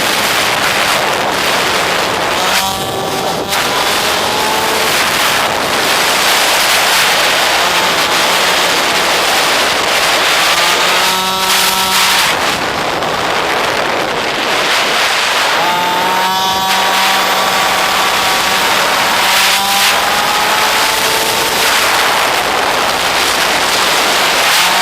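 Pit bike's small single-cylinder engine under load, its pitch climbing in several pulls before each drop, under a loud steady rushing noise.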